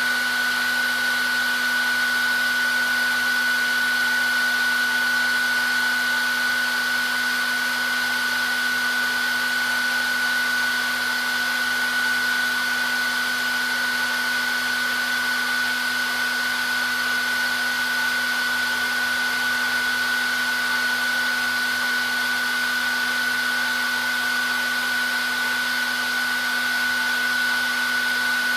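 Hair dryer running steadily on one setting: a constant rush of air with a steady high motor whine and a lower hum, unchanging throughout.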